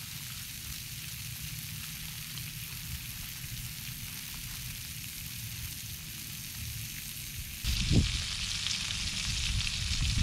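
Bacon-wrapped jalapeño poppers sizzling in a Trangia pan over its spirit burner, with a low rumble of wind on the microphone. About eight seconds in there is a thump, and after it the sizzle is louder and more crackly.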